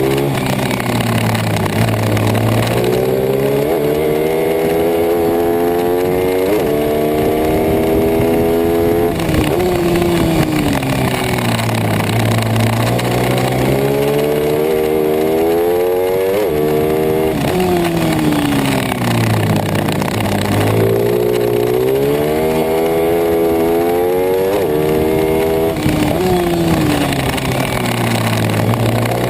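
Pit bike engine at racing speed, revving up hard through the gears with sharp drops in pitch at each shift, then falling away under braking before it picks up again, over and over.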